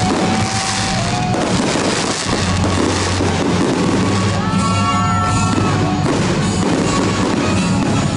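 Music with sustained low notes playing over an aerial fireworks display, with the crackle and bursts of shells, thickest about halfway through.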